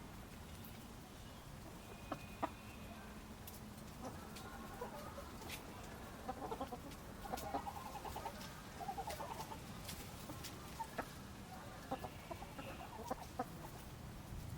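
Chickens clucking in short rapid runs, busiest in the middle stretch, over a steady low rumble, with a few sharp clicks scattered through.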